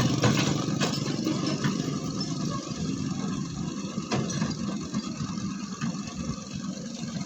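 Heavy diesel machinery running steadily at a sand pit while a dump truck is loaded, with a few short knocks.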